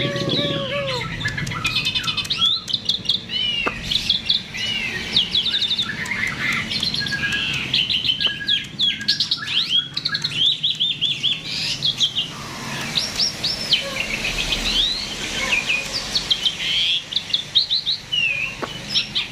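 A jalak (starling) in full song: a rapid, unbroken run of varied chirps, whistled glides and fast trills.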